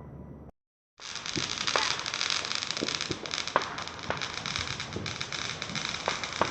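A consumer firework crackling: a dense fizzing hiss packed with irregular sharp pops. It starts about a second in, after a brief moment of dead silence.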